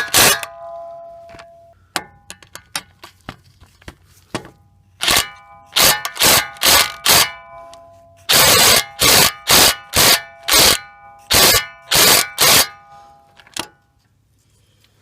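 DeWalt 20V XR DCF894H cordless impact wrench hammering in about a dozen short trigger bursts, most about half a second apart, with one longer burst past the middle; metal rings briefly after the bursts. A few light clicks come before the bursts begin.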